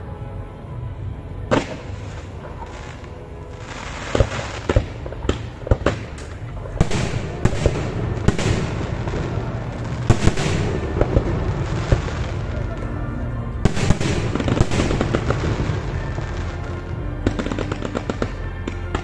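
Fireworks going off: a single bang about a second and a half in, more bangs from about four seconds in, then a dense run of bangs and crackling.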